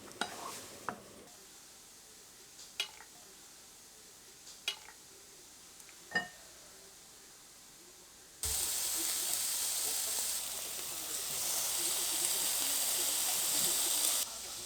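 A few sharp, light clicks, then, just past halfway, food starts sizzling in hot fat on a pan or grill, a steady hiss that ends just before the close.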